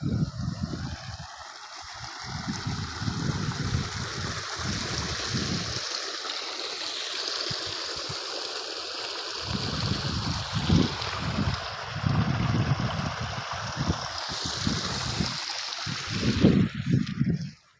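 Steady rain falling, an even hiss with irregular low rumbles underneath, cutting off suddenly near the end.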